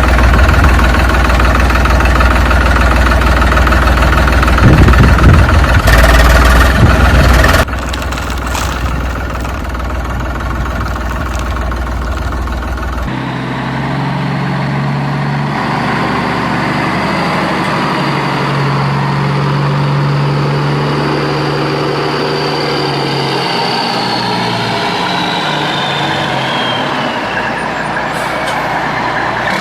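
Vehicle engine sounds, a truck-like engine running, that change abruptly about 7 and 13 seconds in, with a thin high whine falling in pitch near the end.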